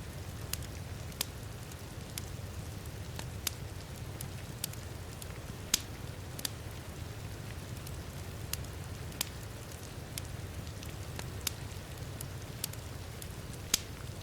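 Wood fire crackling in a fireplace, with sharp pops every second or so, two of them louder: about six seconds in and near the end. Underneath is steady heavy rain with a low rumble.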